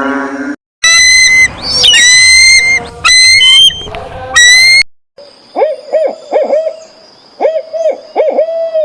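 Animal calls: loud, high whistled calls with sliding pitch for about four seconds, then, after a short break, a string of short, lower hooting notes in quick clusters.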